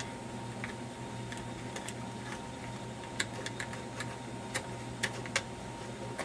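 Scattered small metallic clicks and ticks at irregular intervals as a nut is worked loose on a radio chassis by hand and pliers, over a faint steady hum.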